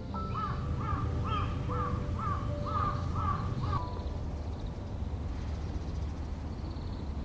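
A crow cawing: a run of about eight short, harsh calls, roughly two a second, ending about four seconds in, over a low steady background rumble.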